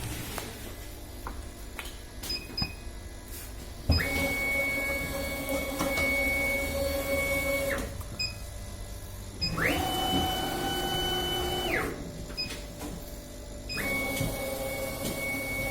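Stepper motors of a KAMACH 1610 laser cutting machine moving the gantry and head. A few light clicks come first. A steady whine starts about four seconds in and lasts about four seconds. A shorter, higher-pitched whine follows around ten seconds in, and a third starts near the end. Each starts and stops with a short glide in pitch.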